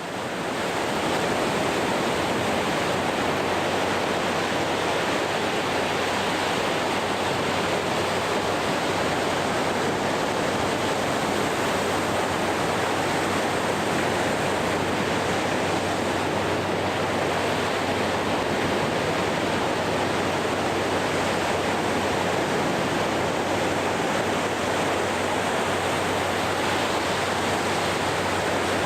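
Ocean surf on a sandy beach: a steady, even rush of breaking waves with no let-up.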